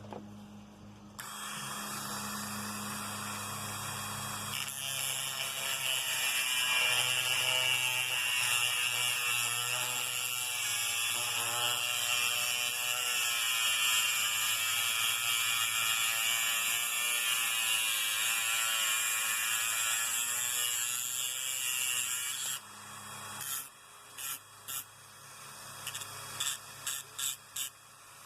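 Dremel rotary tool running at high speed, cutting the edge off a metal screw head. It starts about a second in, and from about five seconds its pitch wavers under load as it cuts, until it stops after about 22 seconds; a run of short bursts follows near the end.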